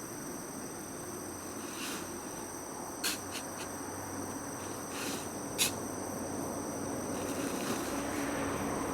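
Insects trilling steadily in two high, even tones, with a few sharp clicks or knocks about three, five and five and a half seconds in.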